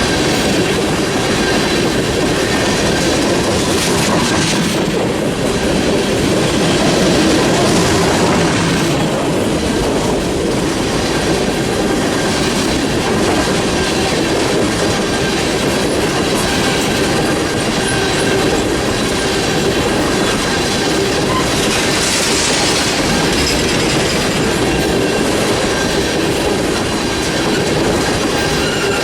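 Freight train cars rolling past on the track, steel wheels running over the rails with a steady, loud noise.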